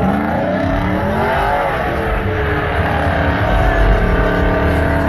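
Pickup truck engine revving hard: the pitch climbs and falls back in the first two seconds, then holds at steady high revs, as when a truck spins donuts.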